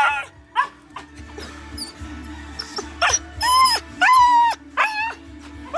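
Dog whining in about five high, falling whines, the two longest a little past the middle, over soft background music.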